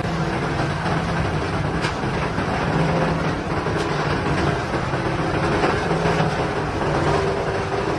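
Heavy machine's diesel engine running steadily with a low, even hum, with a couple of faint clicks.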